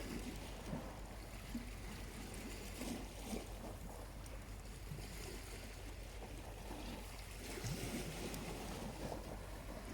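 Small waves lapping gently and continuously at the shore, with a campfire's burning charcoal crackling faintly now and then.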